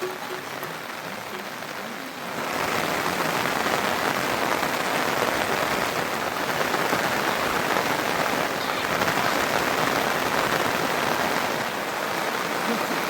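Heavy monsoon rain falling in a steady hiss, stepping up louder about two seconds in.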